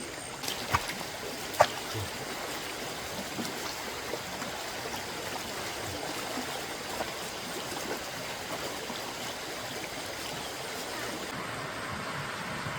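Stream water flowing steadily over rocks, with two sharp clicks in the first two seconds.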